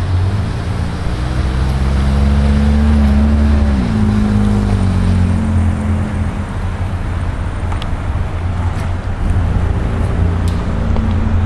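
Fire engine's diesel engine pulling under load, its pitch rising slowly and then dropping sharply about four seconds in as it shifts gear, before running on steadily.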